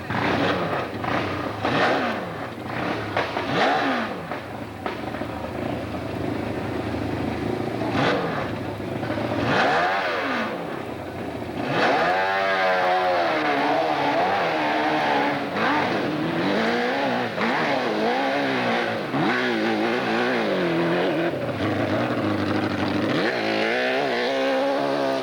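Hill-climb motorcycle engines revving hard, the pitch rising and falling again and again as the throttle is worked. From about halfway the revs come in quick rises and falls, roughly one every second.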